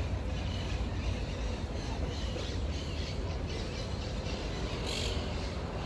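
Birds squawking and chirping in short, repeated calls over a steady low background rumble of street ambience.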